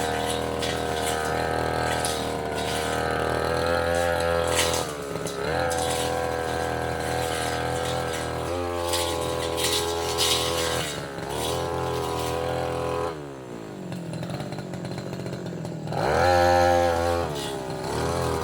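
Tasco 33 Pro brush cutter running at high revs while cutting saplings and roots, its pitch dipping briefly a couple of times, with sharp clicks of the blade striking wood. About two-thirds of the way through the engine slows toward idle for a few seconds, then revs up again.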